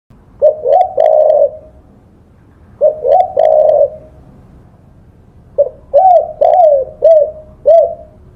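Spotted dove (tekukur) cooing: three phrases of low, rolling coos, two short phrases about two seconds apart, then a longer phrase of about five notes in the second half.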